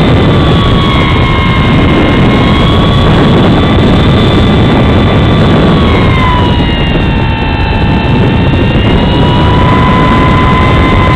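Electric motor and propeller of a Freewing Spacewalker RC plane whining in flight, heard from on board, over heavy wind rush on the microphone. The whine drops in pitch about six seconds in as the throttle is eased, then creeps slightly back up.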